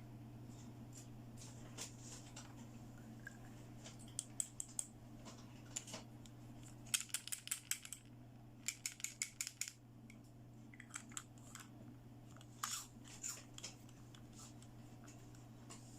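Small clicks and taps from toy plastic pieces being handled, including two quick runs of rattling clicks about halfway through, over a steady low hum.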